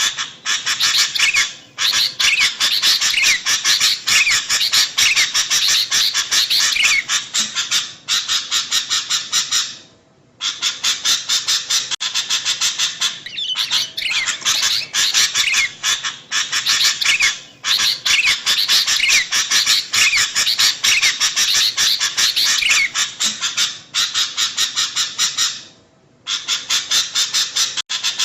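Sooty-headed bulbuls (kutilang) calling in fast, noisy, overlapping chatter, the lively calling used as a lure for bulbuls. The chatter breaks off briefly about ten seconds in and again near the end, then starts again.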